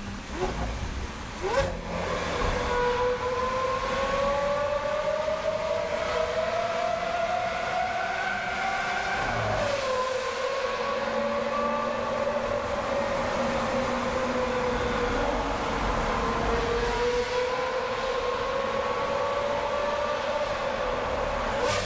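Lamborghini Aventador V12 with a Brilliant Inconel exhaust pulling through a tunnel, heard from inside a car. The engine note jumps up once early, then climbs slowly, falls away about nine seconds in and climbs again. A short sharp crack comes near the end.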